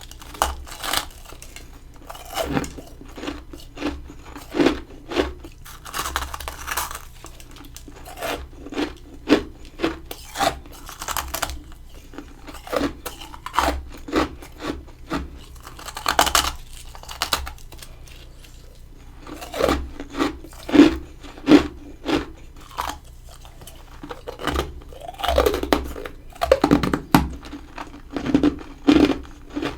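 Close-up bites and chewing of freezer frost: a continuous run of sharp, irregular crunches, several a second, with louder clusters of crunching around the middle and near the end.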